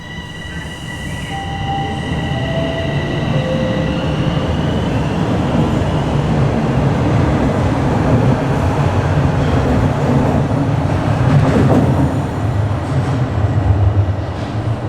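Bombardier Toronto Rocket subway train pulling out and gathering speed. A few short whining motor tones come in the first few seconds, while the rumble of wheels on rail grows louder and then holds steady.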